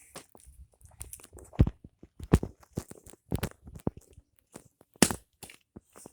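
Irregular knocks, clicks and scuffs, with a few sharper knocks spread through, like handling or footsteps.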